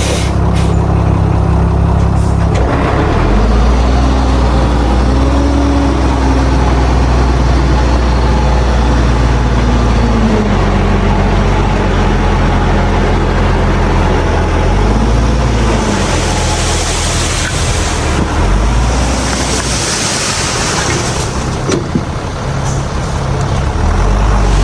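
Heavy diesel earthmoving machinery running, the engine note rising and falling as it revs under load. A hiss comes in briefly twice, about 16 and 19 seconds in.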